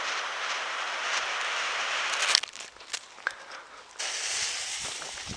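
Lit fuse of a Crazy Monster firecracker hissing steadily, cutting off about two and a half seconds in; then a few light ticks and a fainter hiss.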